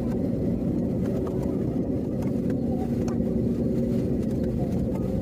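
Steady low rumble and drone of an Airbus A321neo's engines heard inside the passenger cabin as the aircraft taxis, with a constant hum tone over it and a few faint ticks.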